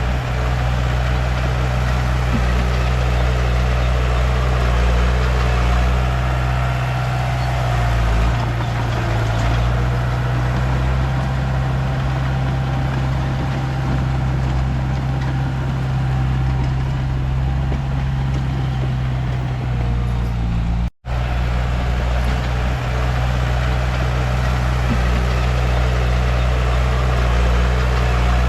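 Komatsu D31P bulldozer's diesel engine running steadily with a deep drone, briefly cut off about 21 seconds in.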